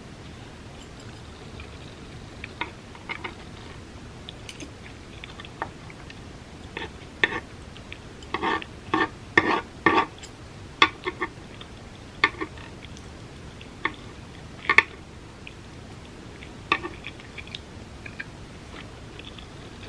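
Close-miked mouth sounds of a person chewing vegan spam musubi (rice, vegan spam and nori): irregular clicks and smacks, densest about halfway through, then sparser.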